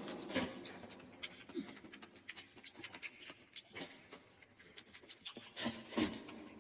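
Faint, scattered clicks and rubbing of eating and of tableware being handled over a noodle dish, with one louder click about six seconds in.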